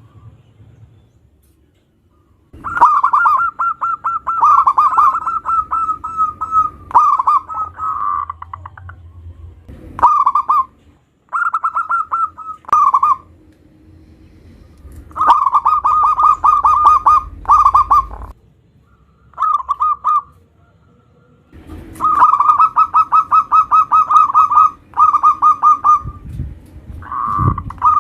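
Zebra dove (perkutut) cooing: loud phrases of rapid, stuttering coos repeated again and again, each lasting from under a second to several seconds, with short pauses between them.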